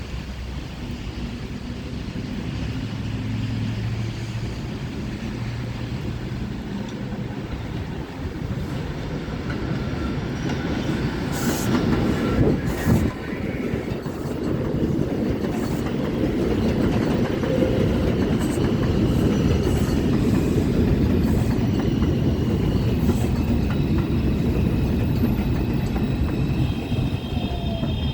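NYC subway train of R142/R142A cars running into the station on the elevated Jerome Avenue line, its rumble and rail clatter growing louder over several seconds, then staying loud, with a few sharp clicks partway through.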